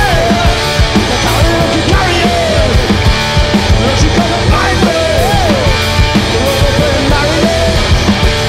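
Live punk-blues rock song played loud by a two-piece band, an instrumental stretch between sung lines with bending, sliding lead lines over a steady beat.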